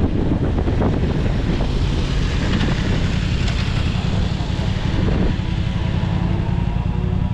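Wind buffeting the microphone on a moving motorcycle, with a steady engine note coming through about five seconds in.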